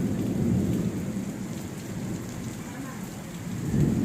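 Rain falling steadily, with a low rumble underneath that eases off and swells again near the end.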